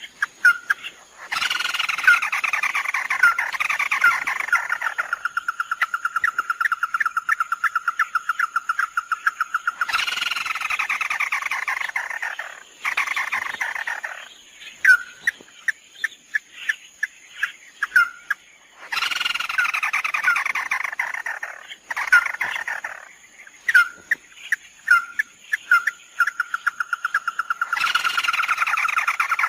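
Lure recording of the bird called 'mắt đỏ' in Vietnamese, calling in a repeating phrase about every nine seconds: a harsh falling burst that runs into a long, fast, even trill. Sharp clicks fall between the phrases.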